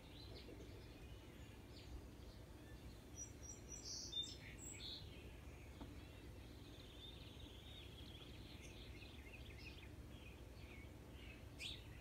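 Faint outdoor birds chirping and calling over a low steady background hum, with a brief louder burst of calls about four seconds in and a short sharp call near the end.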